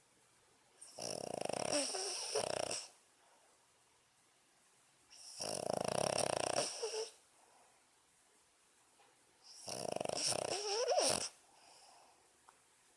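Boston terrier snoring in its sleep: three long snores about four seconds apart, the later ones ending in a wavering whistle.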